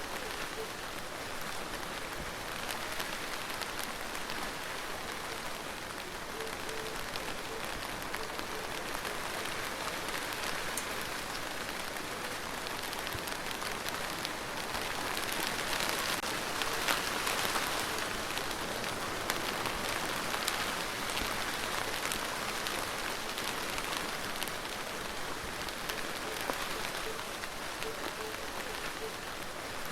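Steady rain falling, with many individual drops ticking through an even hiss; it grows heavier about halfway through, then eases back.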